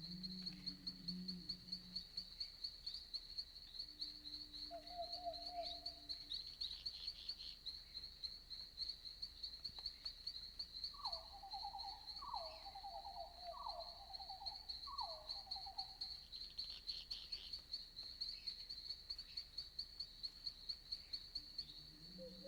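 Crickets chirping in a steady, rapid high-pitched trill, as night-forest ambience. About halfway through, another animal gives four short falling calls in quick succession.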